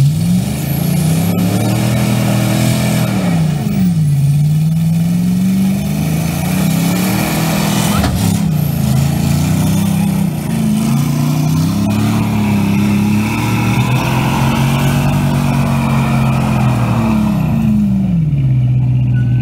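Tractor engine revving up and down repeatedly, its pitch rising and falling in long sweeps, then settling to a steady run near the end.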